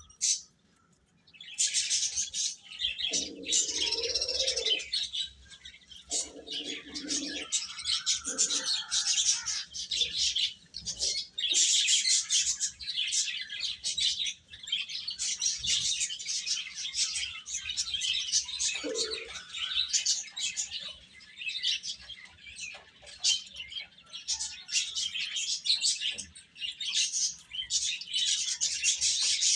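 A group of baby chickens (chicks) chirping continuously in rapid, high-pitched peeps. A few lower, shorter sounds come in about three to eight seconds in and once near the twenty-second mark.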